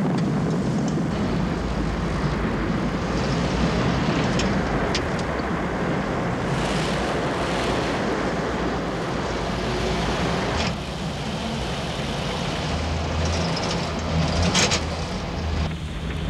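Open-top Land Rover's engine running steadily as it drives over a rough dirt track, with a few sharp clicks; the sound changes abruptly about ten and a half seconds in.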